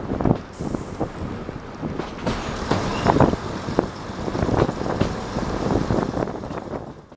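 Passenger coach running along the line, heard from its open droplight window: a steady rumble of the train with irregular knocks from the wheels on the rails, and wind buffeting the microphone.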